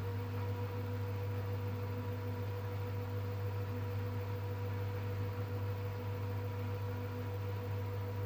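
LG washing machine running with a steady low hum and a few constant tones over it, with no knocking.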